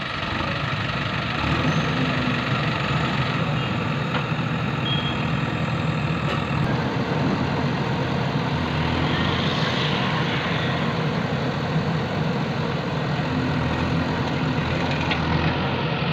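Diesel engine of a heavy machine running steadily.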